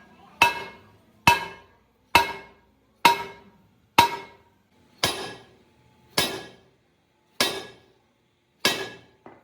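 Hammer striking metal in steady, evenly spaced blows, about one a second, each ringing briefly.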